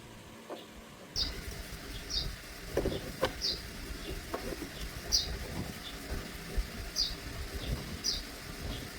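A bird chirping, a short high note repeated about once a second, over workshop background noise with a few knocks about three seconds in.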